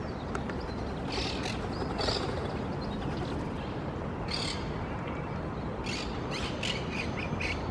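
Parrots giving short, high chirping calls: a couple in the first two seconds, one more about halfway, then a quick run of them near the end, over a steady low background rumble.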